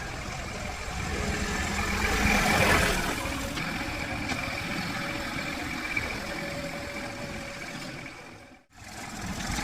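A motor running steadily with a hum and a thin steady whine, growing louder about two seconds in and easing off again; the sound breaks off abruptly near the end and comes back.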